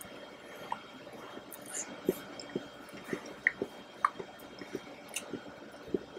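Close-miked chewing of soft chocolate mousse cake: about a dozen irregular wet smacks and sticky mouth clicks.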